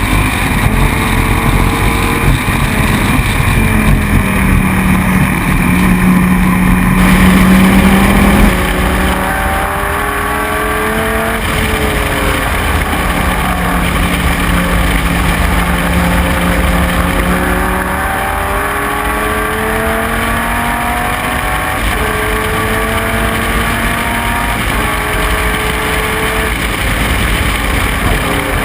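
Dodge Viper GT3's V10 engine at racing speed, its pitch climbing again and again and dropping back at each gear change.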